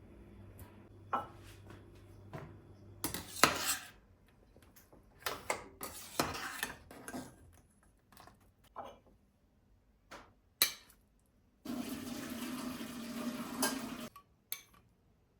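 Dishes and cutlery clinking and clattering in scattered knocks, then water running steadily for about two seconds near the end, followed by one last click.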